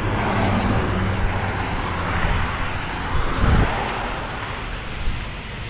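A vehicle engine running with a steady low hum under a broad rushing noise that slowly fades toward the end, with a low thump a little past halfway.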